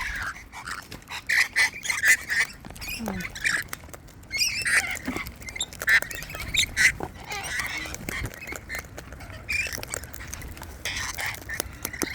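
Wild cockatoos squawking and chattering at close range, many short rough calls overlapping, with frequent sharp clicks and taps among them.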